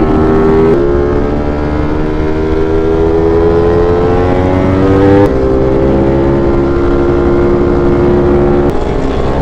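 V4 sport motorcycle engine pulling in gear under a gentle throttle, its pitch climbing slowly. The pitch steps down at a gear change about five seconds in and changes again near the end.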